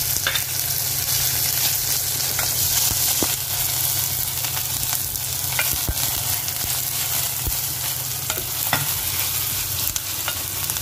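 Sliced onions, curry leaves and whole spices sizzling in hot oil in a pot, with a steady hiss. A wooden spatula stirs them, giving scattered clicks and scrapes against the pot.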